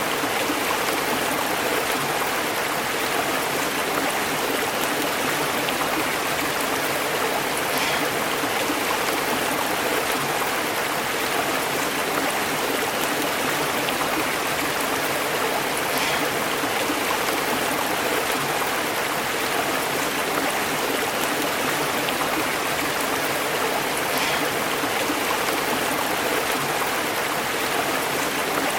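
A stream flowing steadily, its water bubbling over rocks, with a faint brighter splash recurring about every eight seconds.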